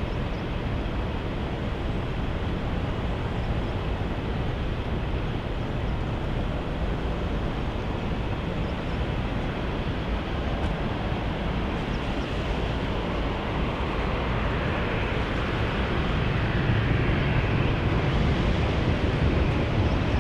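Jet airliner engine noise, a steady wide roar that grows gradually louder over the second half.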